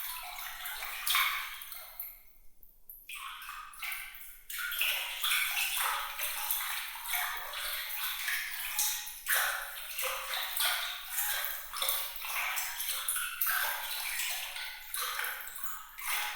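Running water with many small bright splashes and droplet plinks, all high and crisp with little low end; it thins out briefly about two seconds in, then carries on.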